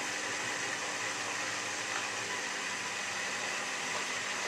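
Miele W3744 washing machine spinning, a steady whir with a thin motor whine held at one pitch.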